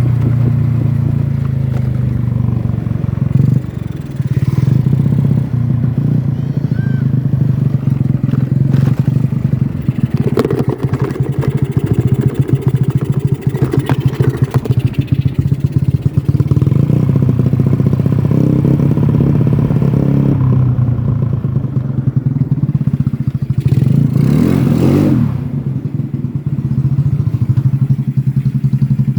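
Yamaha Mio Smile scooter's single-cylinder four-stroke engine running through an aftermarket Black Devil exhaust with a 38 mm inlet: a loud, steady low idle, with the throttle opened a few times in the middle and one quick rev rising and falling near the end.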